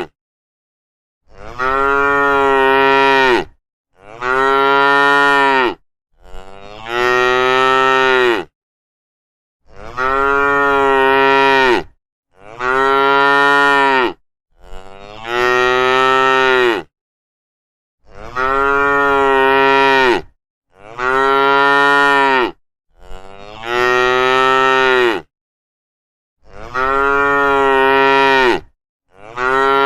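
Cattle mooing: a series of about eleven long, low moos, each lasting about two seconds, with dead silence between them.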